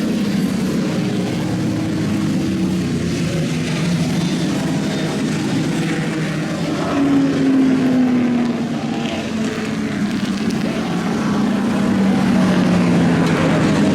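Race car engines running at low revs, their pitch sagging slowly; one engine note comes up louder about seven seconds in and then falls away.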